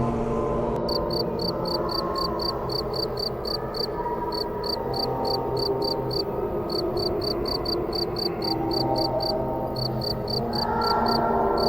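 A cricket chirping in a fast, even rhythm of about four high chirps a second, starting about a second in and pausing briefly a few times, over a steady background noise.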